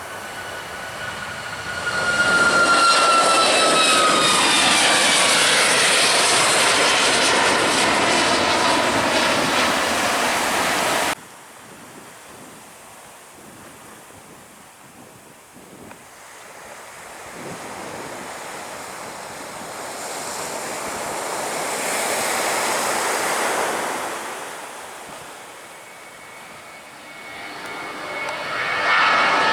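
Jet airliner engines passing low overhead, a loud whine falling steadily in pitch as it goes by, cut off suddenly about eleven seconds in. A quieter swell of jet noise then rises and fades, and another jet's whine builds near the end.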